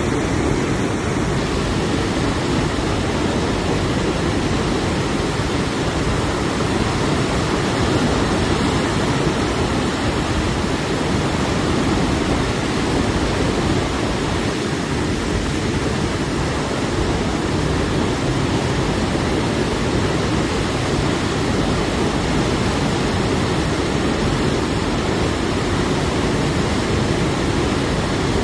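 Steady, even rushing noise, heaviest in the low range, with no swells or breaks.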